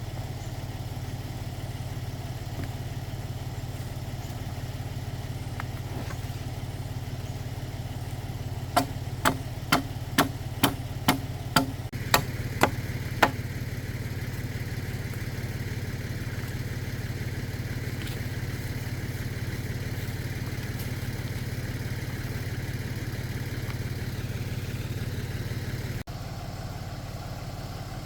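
Tractor engine running steadily with a low, even hum. Partway through comes a quick series of about eight sharp knocks, roughly two a second.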